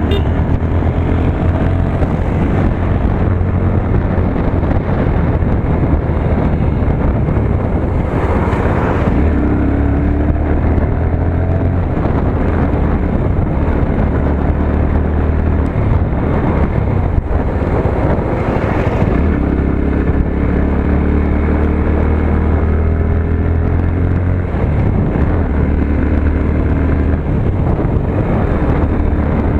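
Motorcycle engine running while riding, its pitch rising and falling with the throttle, with wind on the microphone. There are two brief rushes of noise, about a third and two thirds of the way through.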